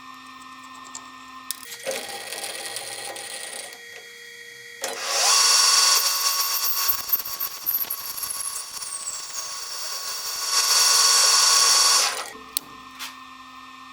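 A power tool in a metal shop runs twice, first briefly and moderately loud, then for about seven seconds much louder. Under it there is a steady machine hum, and a couple of clicks come near the end.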